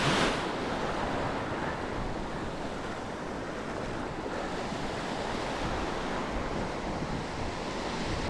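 Ocean surf washing up on the beach, a steady rush of breaking waves.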